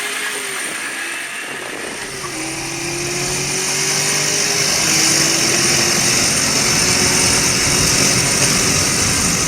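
A car's engine pulling under acceleration, its pitch climbing slowly and dropping at each upshift (twice), with a loud rush of wind noise over it.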